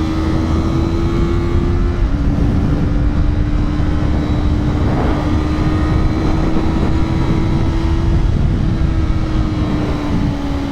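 Yamaha R3 parallel-twin engine held at high, steady revs on the move, over heavy wind rumble on the microphone. The pitch dips slightly about two seconds in, climbs slowly, then eases off near the end.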